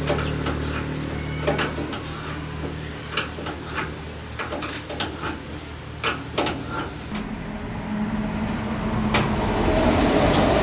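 An engine running, fading down in the first seconds, with a series of sharp metallic clicks and knocks, then a steady engine hum rising again near the end.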